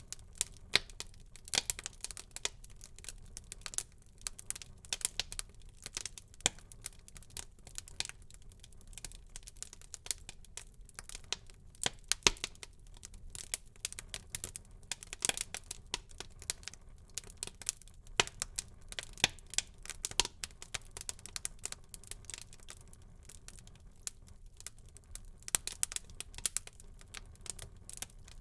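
Wood fire burning in a fireplace, crackling with many irregular sharp pops and snaps over a faint low hiss.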